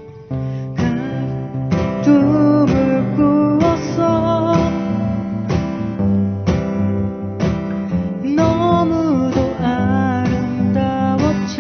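Acoustic guitars strumming a ballad accompaniment while a singer carries the melody, with the voice dropping out for a moment near the middle.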